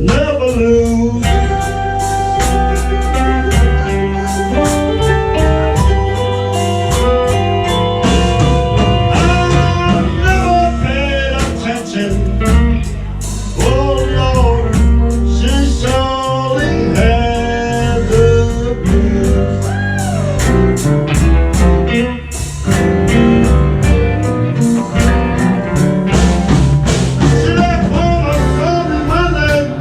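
Live blues band playing an instrumental stretch: guitar with bending notes over bass and a steady drum beat.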